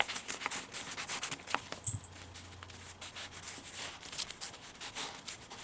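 Paper rustling with small irregular taps and scrapes as the pages, tags and pockets of a handmade paper junk journal are handled and turned.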